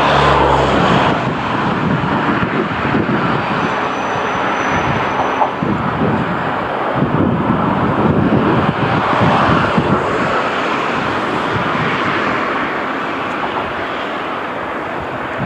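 MaK diesel shunting locomotive 6476 running as it shunts, a steady loud rumble.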